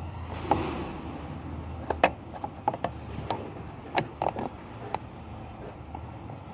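Irregular metallic clicks and knocks of hand tools being worked on a car engine, with a short scrape about half a second in, over a low steady hum.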